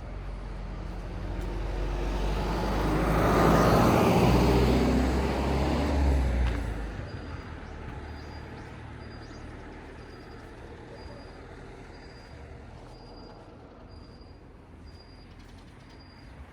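A motor vehicle drives past close by, its engine and tyre noise building to a peak about four to six seconds in and then fading away. Afterwards a faint high beep repeats about once a second.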